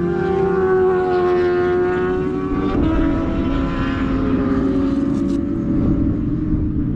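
Motorcycle engine running at high revs, its pitch creeping up and then dropping a little about three seconds in, over a steady rumble of wind and road noise.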